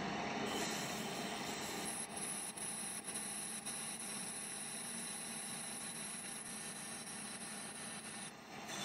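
Machine tool running steadily, with a thin high whine that comes in about half a second in and stops near the end, and a few brief dips in level between about two and four seconds in.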